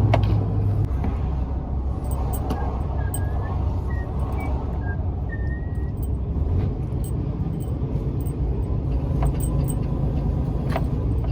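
Truck engine and road noise heard inside the cab while driving: a steady low drone, with scattered light clicks and rattles.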